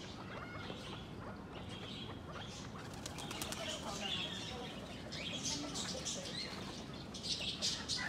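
Birds' wings flapping in short flurries, densest near the end, over a steady scatter of high chirping calls.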